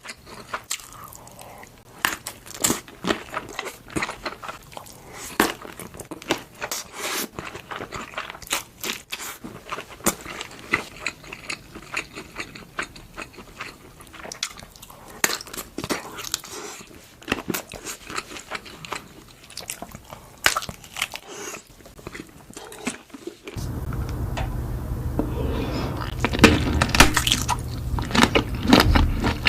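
Close-miked chewing and biting of sausages: a dense run of sharp, crunchy clicks and mouth noises. About 23.5 s in, a steady low hum comes in and the chewing gets louder.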